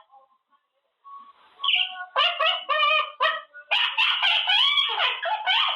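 Quaker parrot (monk parakeet) chattering: a quick run of short pitched calls starting about a second in, becoming almost continuous in the second half.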